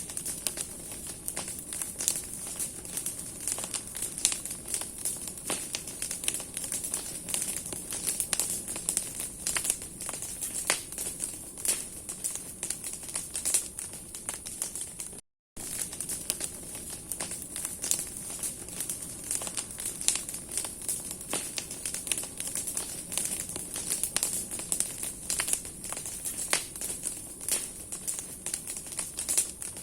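Large bonfire of branches and firewood burning: dense, irregular crackling and popping over a steady hiss. The sound breaks off for an instant about halfway through.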